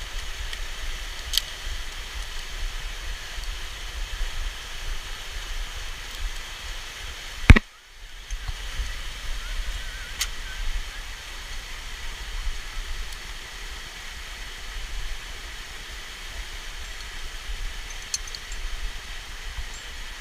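Steady rushing of a waterfall, with a single sharp knock about seven and a half seconds in, the loudest sound, and a few faint clicks.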